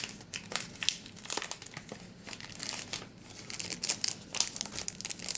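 Crinkling and rustling of a gift package's wrapping being opened by hand: a run of quick, sharp crackles.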